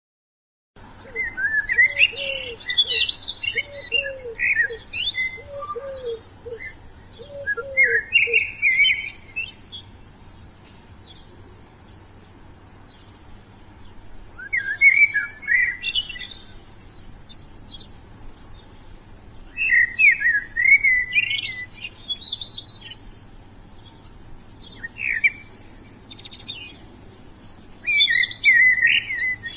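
Wild songbirds singing in bursts of rapid high chirps and trills, five phrases spread across the clip. A lower, down-slurred call repeats five times during the first phrase.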